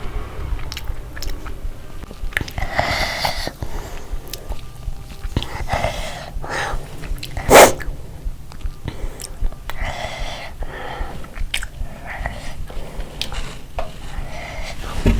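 Close-miked eating sounds: a mouth chewing and biting through mouthfuls of rice and curry, in repeated wet bursts. One louder, sharp sound comes about halfway through.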